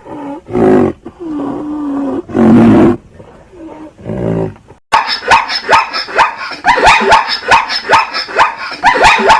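Animal calls in two clips: first low growls and roars, then, after a cut about five seconds in, a rapid series of short high calls, each falling in pitch, about four a second.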